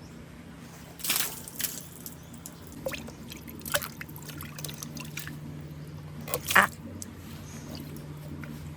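Water dripping and plopping in a bamboo water marble run. A handful of short, sharp drips and splashes come at irregular intervals, the loudest about six and a half seconds in, over a low steady hum.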